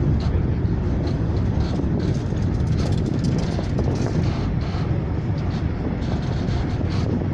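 Train rolling along the line, heard from aboard: a steady rumble of wheels on rail mixed with rushing air, with a few short clicks around the middle.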